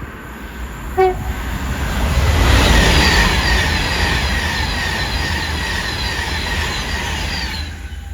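A train passing through the station at speed: a loud rush that builds to its peak about two and a half seconds in, with a fast, evenly repeating clatter, then dies away quickly near the end. A very short horn toot sounds about a second in.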